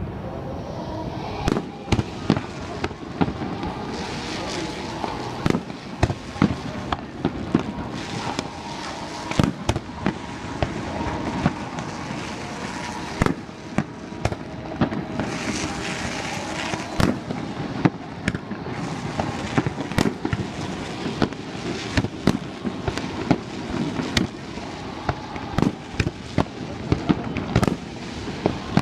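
Fireworks display going off: a continuous run of irregular, sharp bangs from bursting shells, a few every couple of seconds, over a steady background din, with two stretches of hissing crackle.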